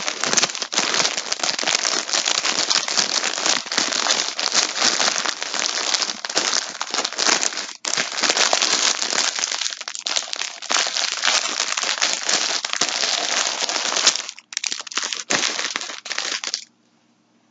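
Yarn packaging crinkling and rustling as it is handled, continuous and loud, with brief pauses about halfway through and near the end, then stopping abruptly just before the end.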